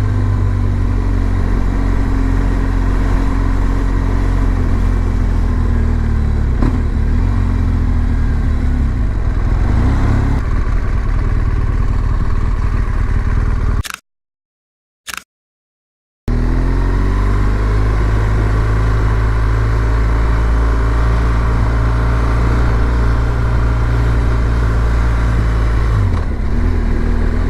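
BMW R1200GS boxer-twin motorcycle engine running while riding, its pitch rising and falling with throttle and gear changes. About halfway through, the sound drops out to silence for about two seconds, then comes back climbing as the bike accelerates.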